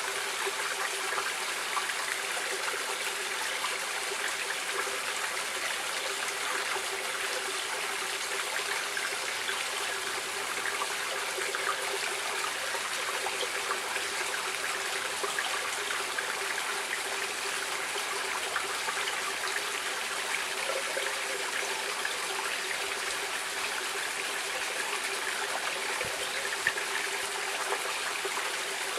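A stream running and trickling steadily over stones.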